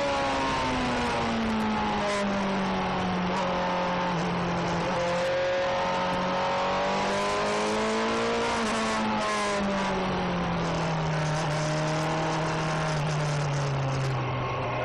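Suzuki GSX-R sportbike's inline-four engine running under way, heard close from the tank, with wind rush over the microphone. The engine note drops over the first few seconds, rises a little around the middle, then sinks slowly toward the end as the bike slows.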